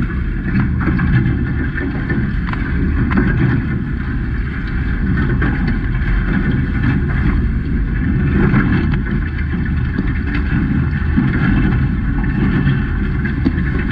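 Steady wind rumble on the microphone with rushing water, recorded aboard a Hobie 16 catamaran under sail.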